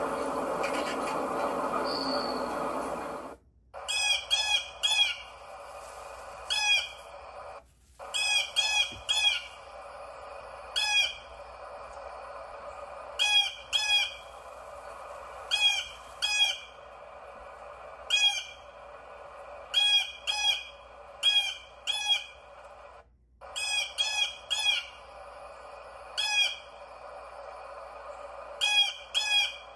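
A bird giving short, sharp calls over and over, singly or in quick runs of two or three, over a steady background hiss. The first few seconds hold a denser, noisier din instead, and the sound cuts out briefly three times.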